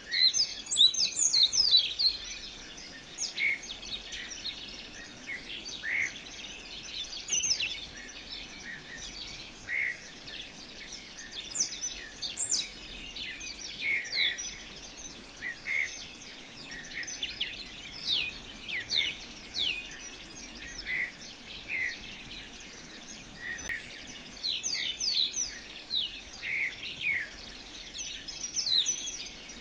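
A chorus of small birds chirping, with many quick high calls, most of them sweeping downward in pitch and overlapping almost without a break.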